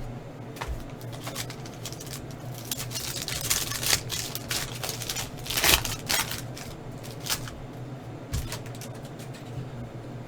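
Trading-card pack being torn open and its cards handled: foil wrapper crinkling and rustling, with scattered clicks and card flicks, over a steady low hum.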